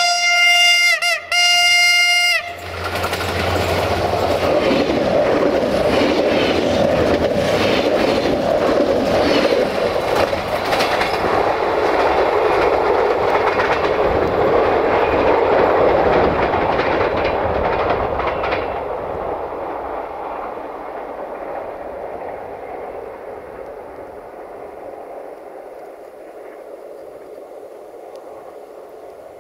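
Siemens Desiro diesel multiple unit sounding its horn in two short blasts, then passing close by with wheels clattering over the rail joints. The clatter stops about 18 seconds in and the train's noise fades away as it recedes.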